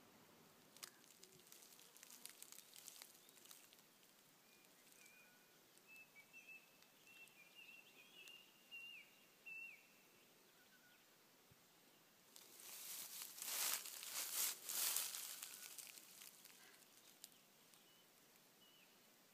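Quiet bush ambience with faint, high chirping bird calls coming in short runs. A louder burst of rustling noise lasts about three seconds past the middle.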